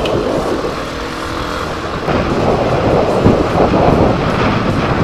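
Motorcycle riding noise: wind rushing over a helmet camera's microphone, with the Yamaha Fazer 250's single-cylinder engine running underneath, louder in the second half.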